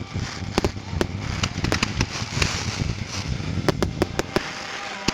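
Fireworks display: a string of sharp bangs from bursting shells, coming in quick clusters, over continuous crackling and hissing.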